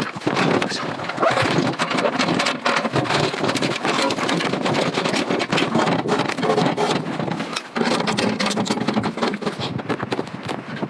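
Rain falling: a steady, dense patter of many drops.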